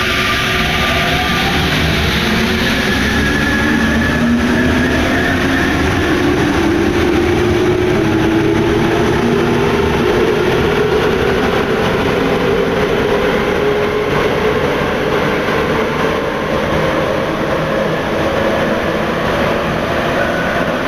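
Rubber-tyred MP89CA Paris Métro train accelerating, heard from inside the car: a rising whine from the traction motors climbs steadily in pitch over a constant rolling rumble, levelling off near the end.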